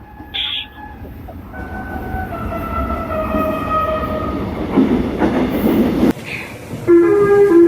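Seoul-area subway train running, with wheel and track noise and a pitched motor whine that steps in pitch. About seven seconds in, after an edit, a train horn sounds loudly.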